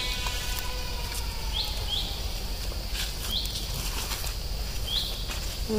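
Outdoor ambience with a steady low rumble, and a bird's short high chirps repeating in pairs about every second and a half.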